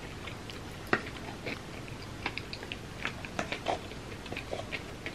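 Close-up chewing of a mouthful, a run of small irregular wet mouth clicks, with one sharper click about a second in.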